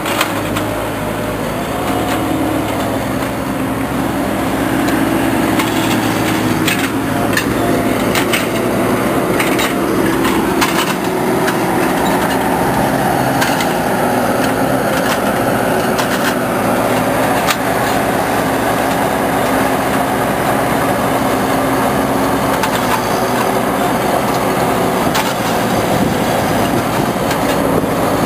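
The engine of a machine unloading trees from a tractor-trailer runs steadily, with a few sharp knocks and clacks scattered through.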